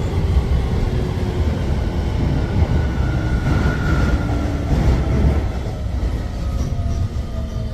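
Electric commuter train running, with a low rumble and a faint motor whine that falls slowly in pitch as the train slows; it grows quieter near the end.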